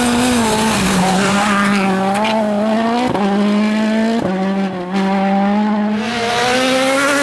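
Rally car engine held at high revs on a stage, its pitch stepping abruptly with gear changes about three and four seconds in.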